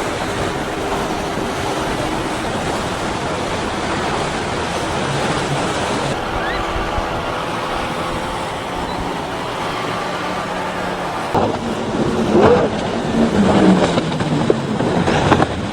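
Power boat engines droning steadily over the rush of water and surf, turning louder and uneven about two-thirds of the way through.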